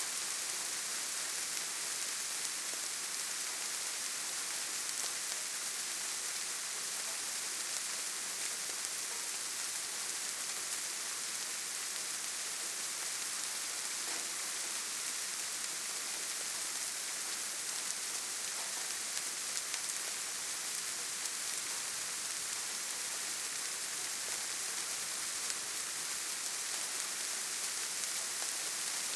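Steady rainfall in a forest, an even hiss of rain with scattered drops pattering on leaves and ground.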